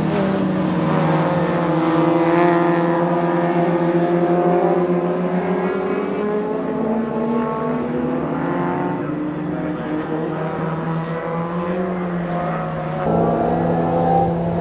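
Racing Morris Mini's four-cylinder A-series engine running hard at high revs. Its pitch rises and falls with the gear changes and braking, over a steadier engine note underneath, and it gets suddenly louder near the end.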